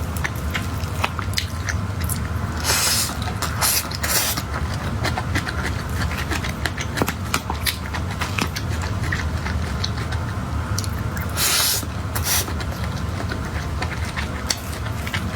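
Close-miked eating: chewing and many small wet clicks of mouth and food, with a few brief hissy rustles, over a steady low hum.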